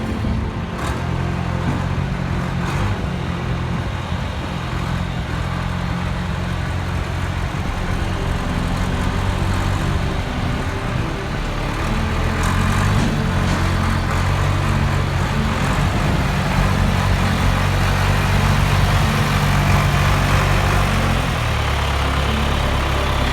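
An engine running steadily, picking up speed about halfway through and dropping back toward idle near the end.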